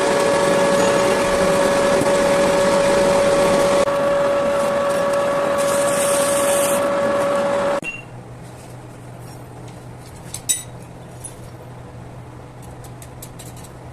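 A power tool runs loud and steady with a high whine, then cuts off suddenly about eight seconds in. A low hum and a few sharp clicks follow.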